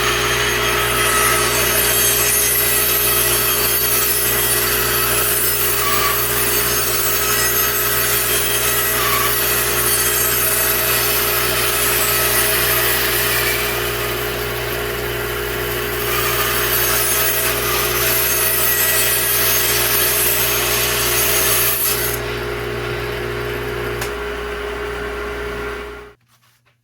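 Bandsaw resawing a thin strip of mahogany on a narrow blade: a steady motor hum under the noisy rasp of the blade cutting through the wood. The cutting eases briefly about halfway through and stops several seconds before the end, leaving the saw running. Then the sound cuts off suddenly.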